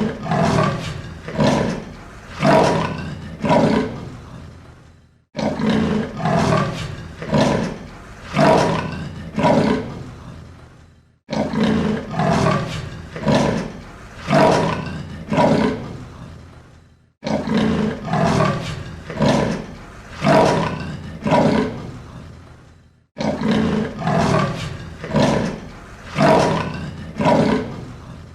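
A large animal's deep calls: a bout of five or six pulsing calls that grow fainter, repeated five times about every six seconds.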